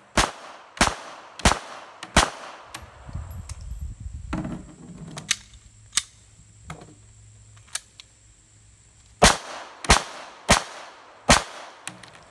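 Gunshots from a firearm in two strings of four, each shot about two-thirds of a second apart. Between the strings there is a pause of about six seconds, with low handling noise and a few fainter sharp clicks.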